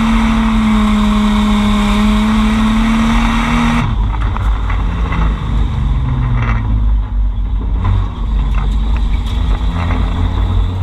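Drift car's engine held at high revs with a steady note, then, about four seconds in, an abrupt change to a lower engine note that falls away over a low rumble.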